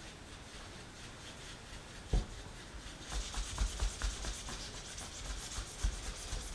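Hand polishing of a large steel engine valve: a cloth or pad rubbing over the metal, with a knock about two seconds in and a louder scratchy rubbing with light knocks from about three seconds.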